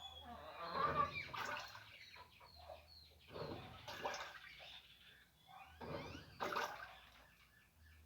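Washing machine agitating a load: water sloshing in surges about every two and a half seconds, with a low motor hum under each surge.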